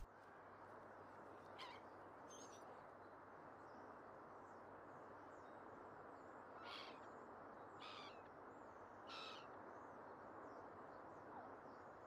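Faint outdoor ambience: a low steady hiss with about five short bird calls scattered through it.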